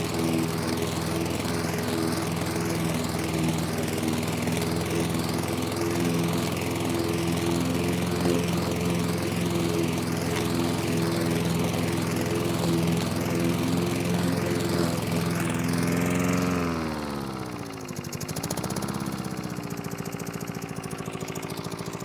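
Mountfield Emperor petrol push mower's engine running steadily at speed. About three-quarters of the way through its pitch drops, dips and then settles at a lower, steady speed.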